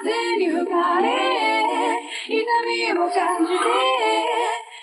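Background music in which a woman sings a sustained, gliding melody. The singing stops near the end.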